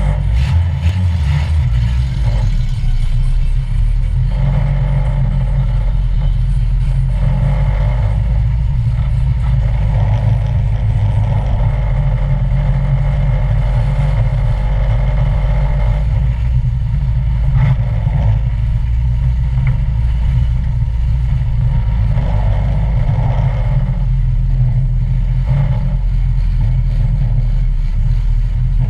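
An old stock car's engine running hard through a race heat, heard from inside the stripped cabin, the pitch and level swelling and dropping as the driver accelerates and lifts, with a few sharp knocks.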